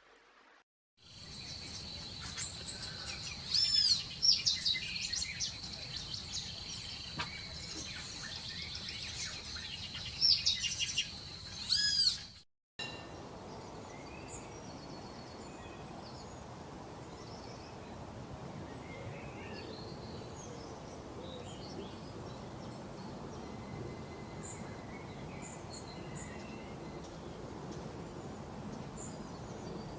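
Wild birds singing: loud, clear whistled phrases that rise and fall, over a steady high-pitched tone, until the recording cuts off suddenly. After the cut, a steady hiss of outdoor background noise with scattered faint chirps.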